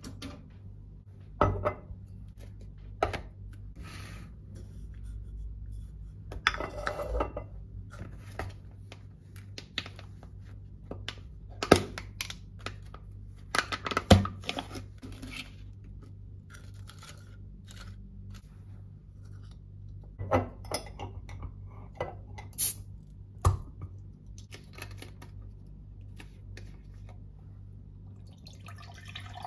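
Dishes and utensils handled in a kitchen: scattered clinks and knocks of crockery and cutlery set down and picked up, the loudest about twelve and fourteen seconds in, over a steady low hum.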